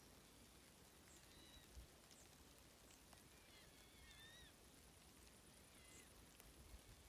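Near silence over a lakeside with a few faint bird chirps, a small cluster of them about four seconds in.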